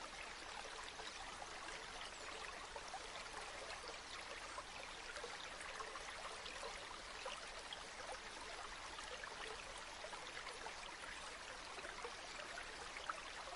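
River water flowing steadily, a continuous soft babble of small splashes.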